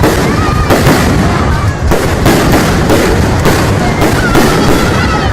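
Fireworks exploding in rapid, overlapping bursts, a loud continuous barrage with many bangs each second.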